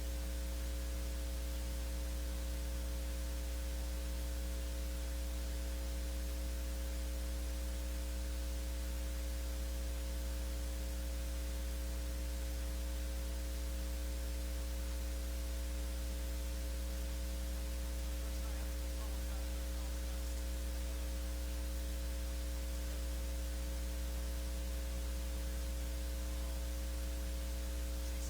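Steady electrical mains hum with hiss: a strong low hum with a few faint steady higher tones above it, unchanging throughout.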